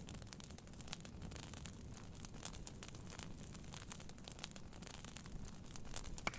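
Wood fire crackling with irregular sharp pops, one louder pop near the end, over a steady low rumble of rain.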